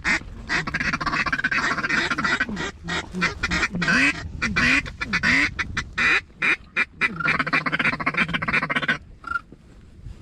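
A hand-blown duck call worked in quick series: rapid chattering notes and quacks, continuous until it stops abruptly near the end.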